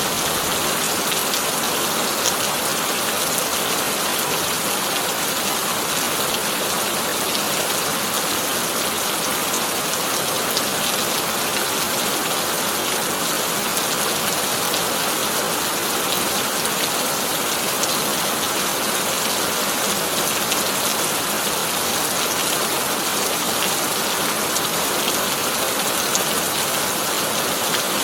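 Heavy rain drumming steadily on a corrugated tin roof: an even, dense hiss of drops with fine scattered ticks.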